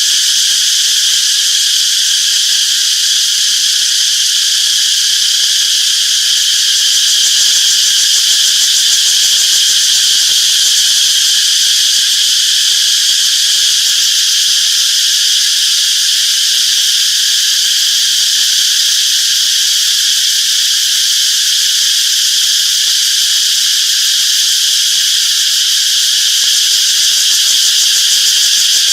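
Chorus of cicadas buzzing continuously, a dense high-pitched drone that holds steady in level throughout.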